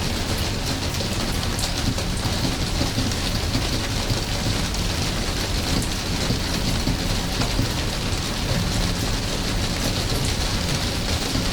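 Steady rain falling, an even hiss dotted with fine drop ticks over a low rumble.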